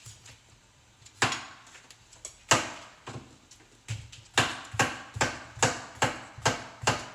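Kitchen knife chopping through produce onto a cutting board: two single cuts, then from about four seconds in a steady run of quick cuts, about two and a half a second.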